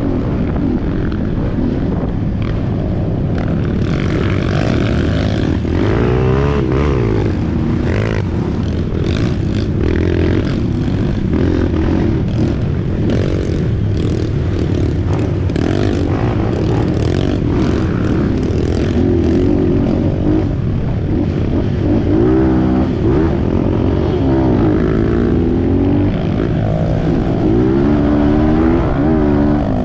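Trail motorcycle engine revving up and down repeatedly as it rides, its pitch rising and falling every second or two over rough mechanical and wind noise.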